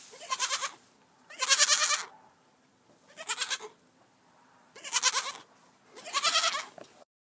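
A goat bleating: five separate bleats, each under a second long, about a second apart.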